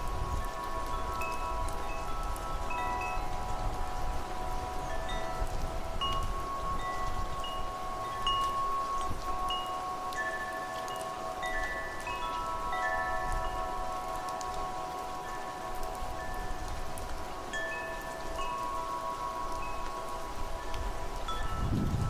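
Wind chimes ringing in the wind, with many struck tones overlapping and sustaining at irregular intervals, over a steady wash of wind and rain.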